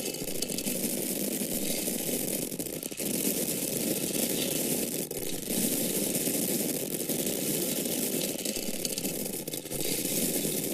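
Dried grain or corn kernels falling in a continuous stream: a dense patter of many tiny impacts, with short lulls about three, five and nine and a half seconds in.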